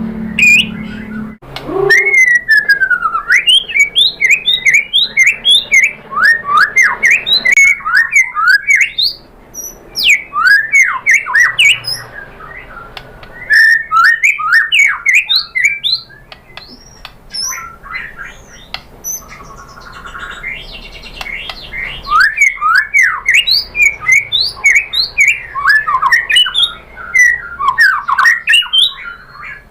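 White-rumped shama (murai batu) singing: fast runs of loud whistled notes sliding up and down, mixed with harsher notes, in dense bursts broken by a few quieter spells.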